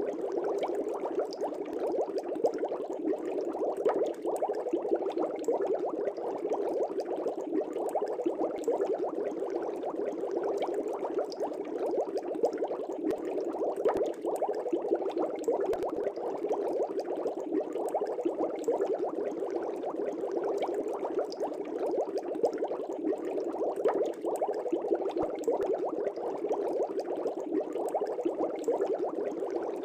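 Aquarium air bubbles rising and breaking at the water surface, a steady dense bubbling with many small pops.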